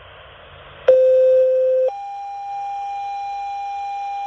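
Two-tone sequential fire dispatch paging tones over a radio scanner: a faint hiss, then about a second in a steady lower tone lasting one second, followed by a steady higher tone held through the rest.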